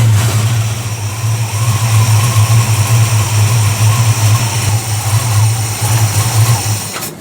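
Chevy Vortec 350 V8 engine in a carbureted setup, freshly fitted with new intake manifold gaskets, running at idle with an uneven, pulsing beat; near the end its sound falters and stops.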